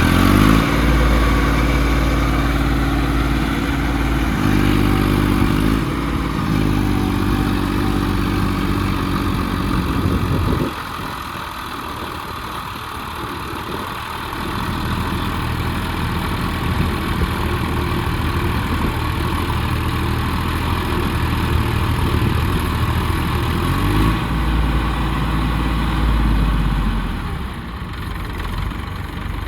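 Massey Ferguson tractor's diesel engine running under load, its revs rising and falling while the tractor works its wheels down into a pit. About ten seconds in it drops to a quieter, lower run. It picks up again later, revs higher for a few seconds and eases off near the end.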